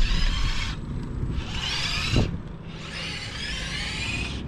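A bicycle making three rasping, whirring bursts of about a second each, over a steady low rumble of riding.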